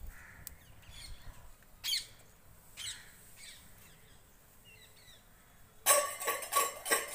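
Birds calling: a few short calls early on, then a loud run of harsh, rapidly repeated calls starting about six seconds in.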